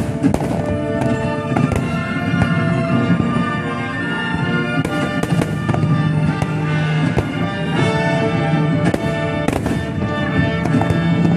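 Aerial firework shells bursting and crackling in quick succession, a sharp bang every second or so, over music with long held notes.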